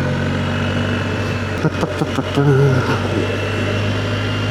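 BMW R1250GS boxer-twin engine running steadily. A few sharp clicks come about halfway through.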